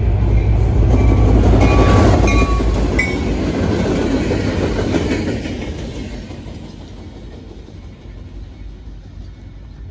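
Norfolk Southern local freight train moving past, led by a diesel locomotive: a low engine rumble and wheels clacking on the rails. It fades away about five to six seconds in.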